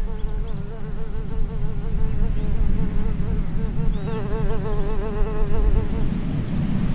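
A flying insect buzzing close by: a steady, wavering hum that pulses several times a second, over a low rumble of wind.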